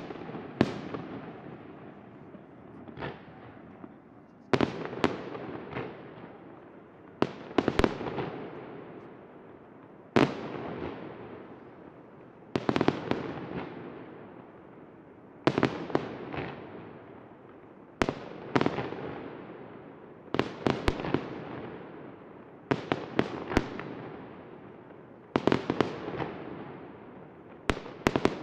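Fireworks display: aerial shells bursting in clusters of two or three sharp bangs about every two and a half seconds, each cluster trailing off in a long fading echo.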